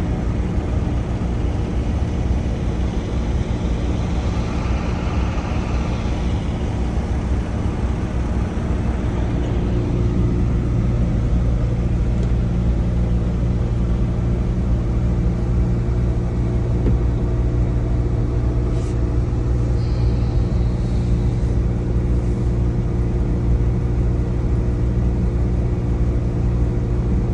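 Semi-truck diesel engine running at a steady speed, a low, even drone that holds its pitch.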